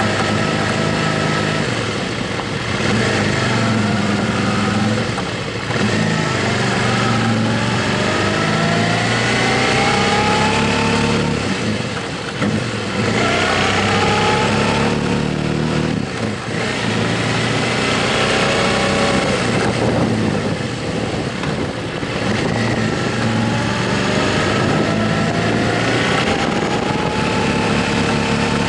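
Motorcycle engine pulling through the gears while riding. Its pitch climbs for several seconds and drops back at each gear change, about four times, over a steady rush of road and wind noise.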